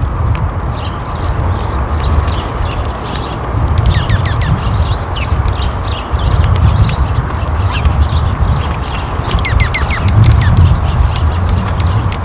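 Small birds chirping in many short, quick, downward-sliding notes, thickest twice in the middle, over a continuous low rumble.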